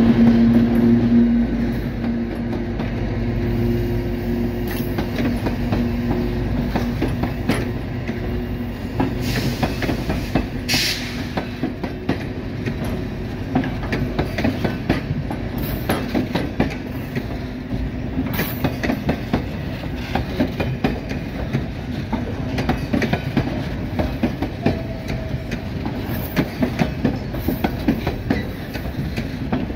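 White Pass & Yukon Route narrow-gauge train rolling slowly past close by. The EMD diesel locomotive's engine hum fades over the first several seconds. After that, the passenger coaches' wheels clatter steadily over the rail joints, with a brief wheel squeal about ten seconds in.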